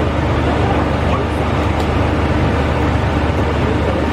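Steady low rumble and hum inside a KTM Shuttle Tebrau passenger coach, the running noise of the train heard from a seat.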